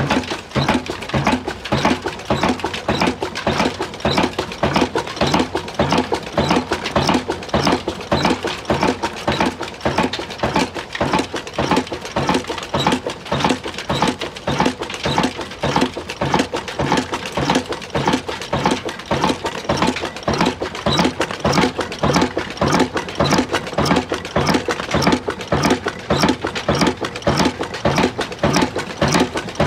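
Old Ruston Hornsby single-cylinder diesel engine running, with a steady, even beat of a few strokes a second.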